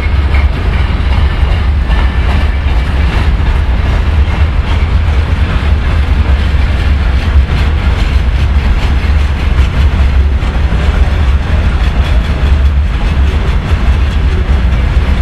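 A freight train's wagons rolling past at speed: a loud, steady rumble, with the wheels clattering over the rail joints.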